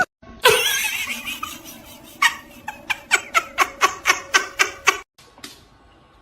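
A person laughing hard: a loud outburst, then a quickening run of about a dozen short bursts that stops about five seconds in.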